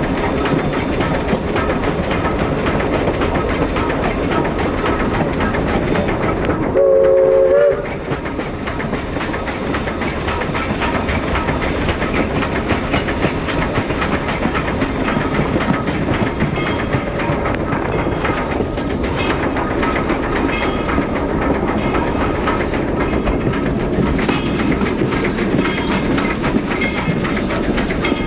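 A moving train heard from an open passenger car behind Columbia River Belt 2-4-4-2 steam locomotive #7: a steady rumble and clatter of the cars on the rails. About a quarter of the way in, one short blast of the locomotive's steam whistle, several notes sounding together and lasting about a second, is the loudest thing heard.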